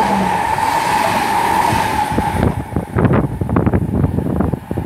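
Class 323 electric multiple unit passing through the station at speed, with a steady whine over the rush of the train for the first couple of seconds, then a quick run of clatters as the rest of the train goes by.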